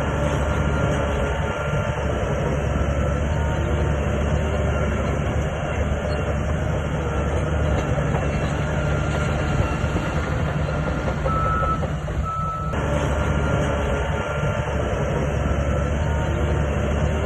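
Shantui crawler bulldozer's diesel engine running steadily under load, with its steel tracks clanking and rattling.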